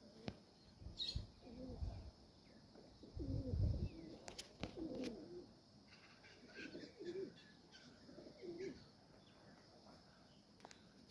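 Domestic pigeons cooing, a run of about five low, rolling coos, the loudest about three to four seconds in.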